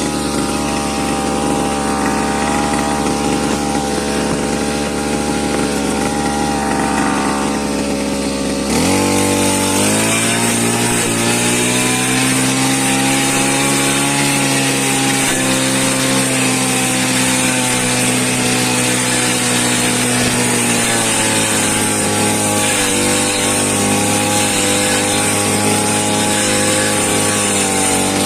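Small engine running continuously under load. Its speed jumps up about 9 seconds in and eases back down about 21 seconds in.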